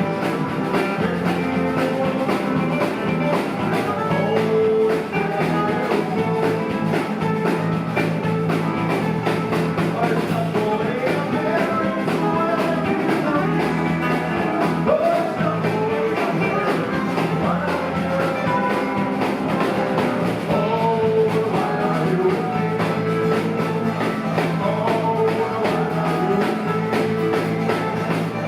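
Live rock band playing a continuous passage, with guitar over bass and drums keeping a steady beat.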